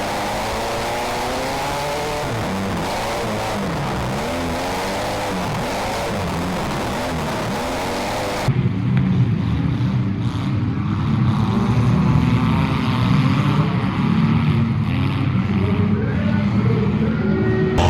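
Compact demolition derby cars' engines revving and running, their pitch rising and falling. About eight seconds in, the sound changes abruptly to a denser, lower din of several engines.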